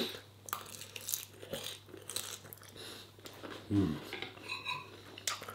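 Close mouth sounds of chewing a mouthful of curry and chips, faint and crackly, with a brief low hum of the voice a little before four seconds in. Metal cutlery scrapes and taps on the ceramic plate shortly after.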